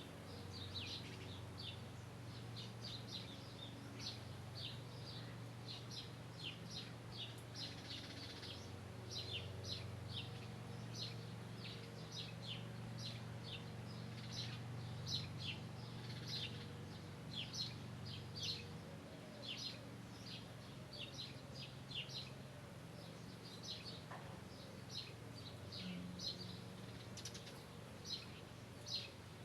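Small birds chirping, many short high chirps a second, over a low steady hum.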